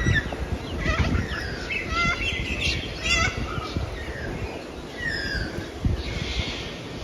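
Birds calling: a run of short chirps, trills and rising and falling whistled calls, over a low rumbling noise.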